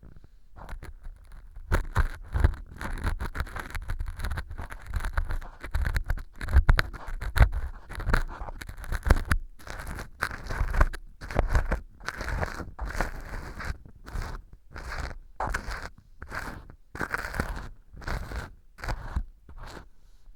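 Ear pick scraping and crackling against pieces of dry fu (baked wheat gluten) glued hard as fake earwax inside an ear model. Continuous scraping for several seconds, then separate strokes about once a second.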